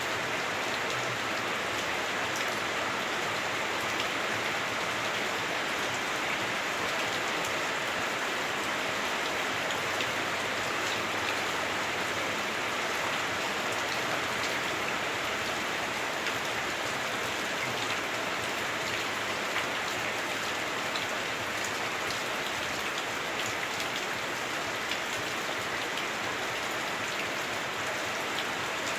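Heavy rain drumming on a house roof, heard from indoors: a steady, dense hiss with scattered individual drop ticks.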